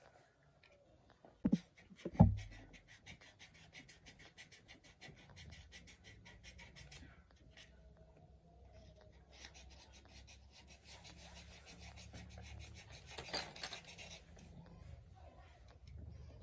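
Hand-tool work on engine parts: two sharp knocks between one and two and a half seconds in, then long runs of rapid, even clicking strokes.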